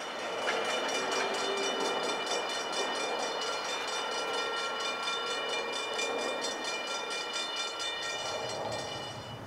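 NJ Transit train passing at speed: a rushing rumble with a high, rapidly repeating metallic ringing over it. It rises about half a second in and eases near the end.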